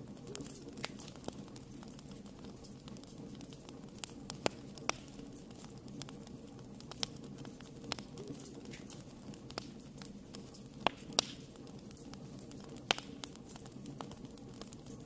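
Wood fire burning in a fireplace: a steady low rumble and hiss with irregular sharp crackles and pops, a few louder snaps among them.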